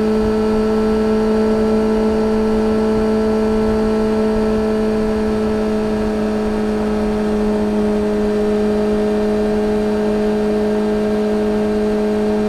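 A 2013 Yamaha XJ6-S's 600 cc inline-four engine holds steady revs through a full Black Widow exhaust with no catalytic converter and a carbon-fibre silencer. A low rumble of wind noise sits underneath.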